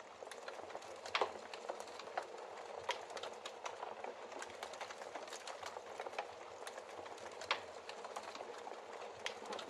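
Wood fire burning in a fireplace: a steady hiss of flames with irregular crackles and pops from the logs, a few sharper pops standing out about a second in and again near the end.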